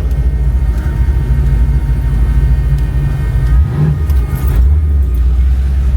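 Car engine with a loud exhaust running close by, a deep pulsing rumble that swells briefly about four and a half seconds in.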